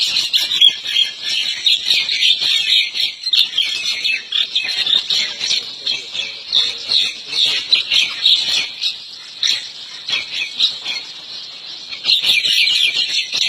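Birds chirping rapidly and continuously: a dense run of short, high-pitched chirps that eases a little about ten seconds in and picks up again near the end.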